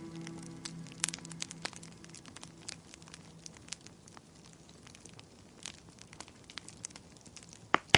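Wood fire crackling in a fireplace: irregular small snaps and pops, with one sharp, louder pop near the end. Soft music fades out in the first second.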